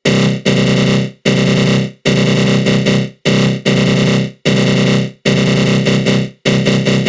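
Synthesized 'attack growl' sound effect: a harsh, buzzy synth drone with a flanger sweep, in about nine loud blasts of uneven length, each cutting out abruptly before the next.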